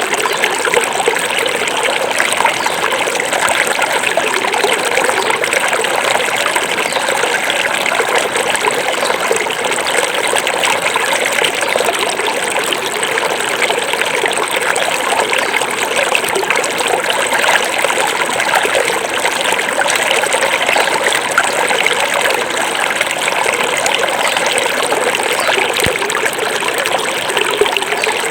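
Small forest river flowing over stones, a steady babbling and trickling of water that goes on evenly.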